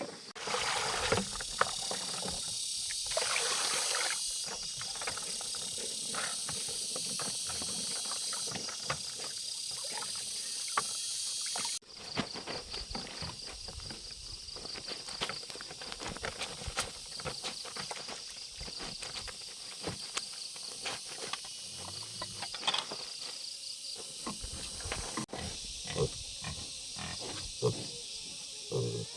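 Insects chirping steadily in a high, pulsing drone, with scattered clicks and knocks and occasional animal noises underneath.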